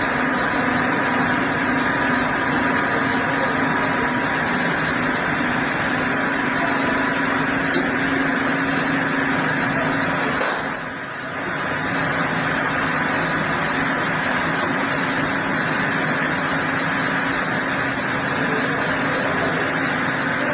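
Chainsaw engine running steadily during wood milling, with a brief drop in level about halfway through.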